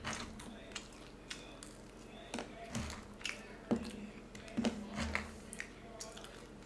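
A person chewing french fries close to the microphone: irregular wet mouth smacks and clicks.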